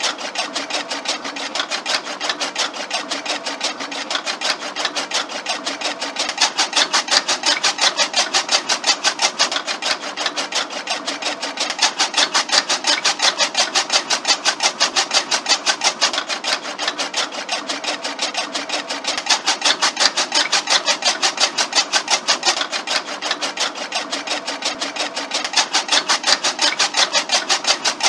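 Miniature DIY chaff cutter, belt-driven by a small DC motor, running steadily with a fast, even clatter over a motor hum as its spinning blade wheel chops green stalks fed into it.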